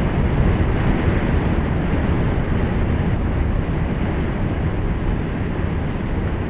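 A deep, steady rush of water, slowly getting quieter.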